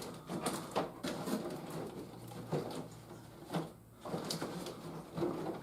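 Irregular clicks, taps and rustles of plastic toy parts and packaging being handled while a toy playset is unboxed.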